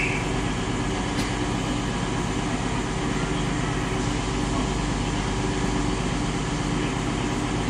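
Train engine running steadily with a constant low hum.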